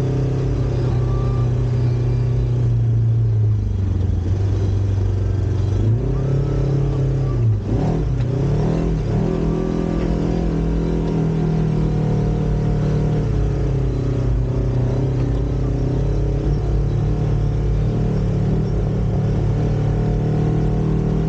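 Side-by-side UTV engine running under way on a dirt trail, its pitch rising and falling with the throttle: the note drops about four seconds in, climbs back, swings up and down briefly a few seconds later, then holds steady.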